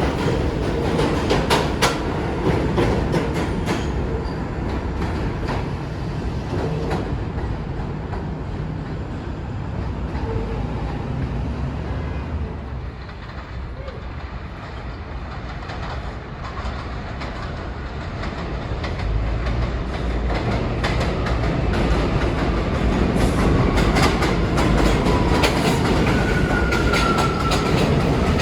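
New York City subway trains: wheels clacking over rail joints as a train runs past and fades away, then another train's running noise building up as it approaches, with a faint high whine near the end.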